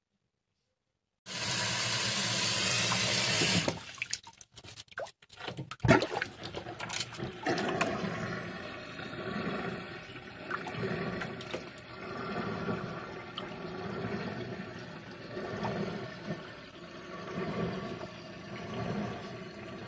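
Water gushing loudly from a tap for a couple of seconds, then a few knocks and splashes, then water running and sloshing, swelling and fading about once a second.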